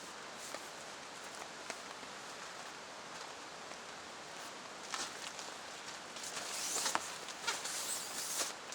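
Footsteps and rustling, scattered clicks at first, then a denser run of crunching and rustling from about halfway through, over a steady hiss.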